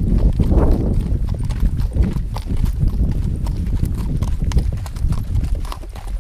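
A horse's hooves clip-clopping irregularly as it is led at a walk over uneven ground, over a loud steady low rumble.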